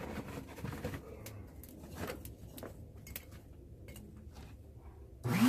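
Scattered light metallic clinks and knocks. Near the end, the charcoal forge's air blower switches on: a loud rush of air with a hum that rises in pitch as the motor spins up, then cuts off sharply.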